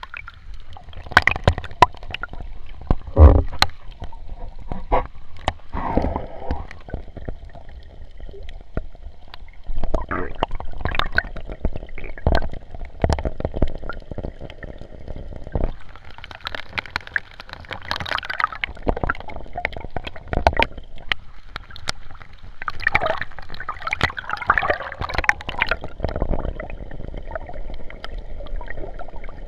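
Sea water sloshing and gurgling around a swimmer, in irregular surges with sharp splashes.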